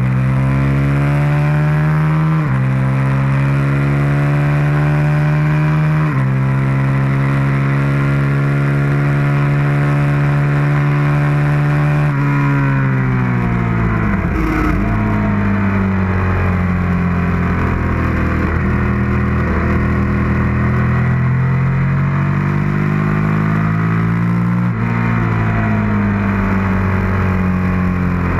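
Suzuki SV650's V-twin engine at full throttle, revs climbing through the gears with upshifts about two and six seconds in, then held high. About halfway the revs fall as the throttle is shut and it is downshifted for a corner, before it pulls up through the revs again with another upshift near the end. A steady rush of wind runs underneath.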